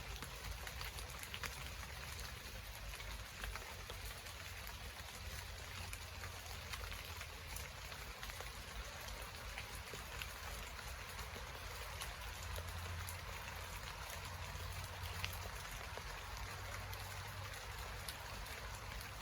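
Steady rain falling, a continuous hiss with many single drops striking close by, over a low rumble.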